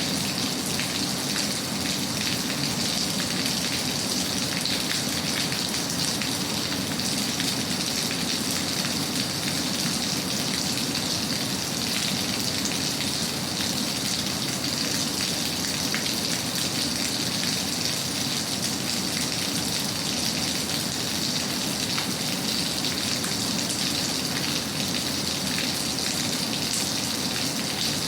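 Steady, heavy rain with a dense patter of drops, even and unchanging in level.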